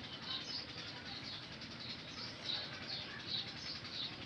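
Faint high-pitched chirping of small birds in the background, a few short chirps a second over a low hiss.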